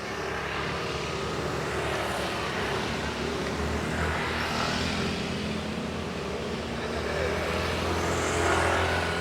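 Small rented motorcycle's engine running, growing louder as it comes closer and peaking near the end.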